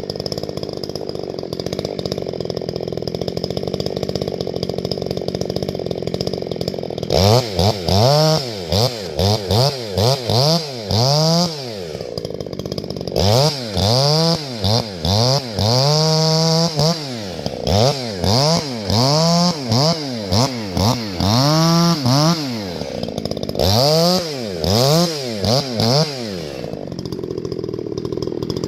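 Husqvarna 350 two-stroke chainsaw idling steadily for several seconds. It is then revved up and let back down in many quick bursts of a second or so each, as in limbing and short cuts, before settling back to idle near the end.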